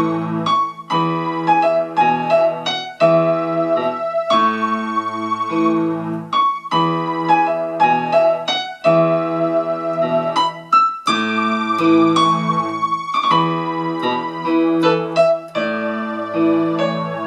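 Electronic keyboard on a piano pad sound playing a slow hymn tag ending in E major, a right-hand melody over left-hand bass notes alternating between A and E chords.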